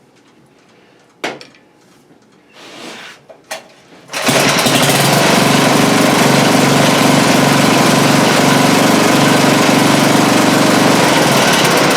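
A few knocks and a short rustle, then about four seconds in the tiller's 5 hp single-cylinder engine starts and runs loud and steady. The engine has no muffler.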